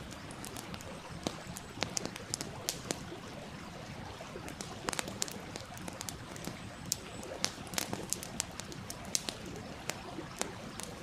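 Wood fire crackling with irregular sharp pops, several a second, over the steady murmur of a flowing stream.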